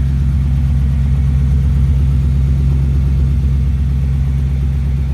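1969 Mercedes-Benz 300SEL 6.3's 6.3-litre V8 running at a steady idle with a low hum, the engine still a little cold.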